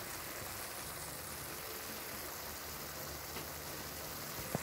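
Ground pork and onion frying in a wok, a steady sizzling hiss, with one light click near the end.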